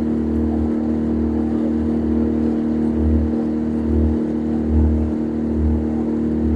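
Small boat's petrol outboard motor running at a steady cruising speed, a constant hum with an uneven low rumble underneath.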